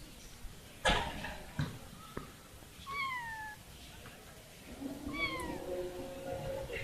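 Kitten meowing twice, short high cries that fall in pitch, about three and five seconds in. A sharp knock about a second in is the loudest sound.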